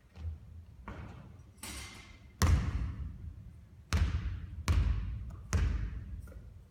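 A basketball striking a hard court or the hoop about seven times at uneven intervals, each thud echoing briefly. The loudest hit comes about two and a half seconds in.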